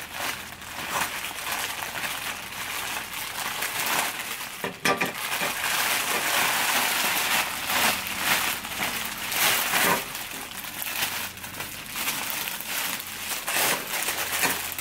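Plastic poly mailer bags and the plastic-wrapped clothes inside them crinkling and rustling irregularly as the packages are cut open and unpacked by hand, loudest around the middle.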